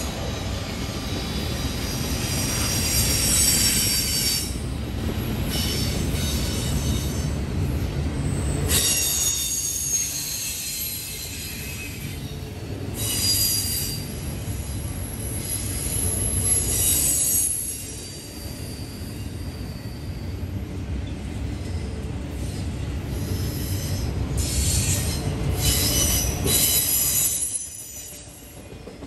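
Norfolk Southern double-stack intermodal freight train rolling past at speed: a steady low rumble of wheels on rail, with high-pitched wheel squeal that comes and goes. It eases off a little near the end.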